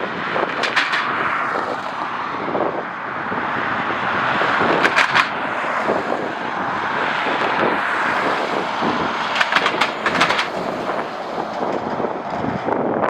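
Strong wind blowing across the microphone as a loud, steady rush, with short bursts of crackling pops from gusts hitting it about one second in, about five seconds in and about ten seconds in.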